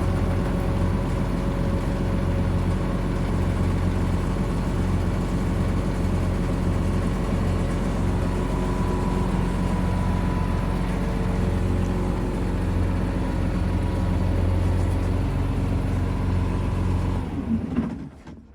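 Case 340 tractor's diesel engine running steadily at a constant speed, stopping near the end.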